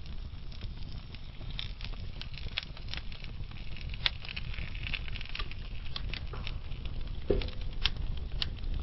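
Wood fire in a fireplace burning logs: a low steady rumble of flame with irregular crackles and snaps, a sharper pop about four seconds in and again near the end.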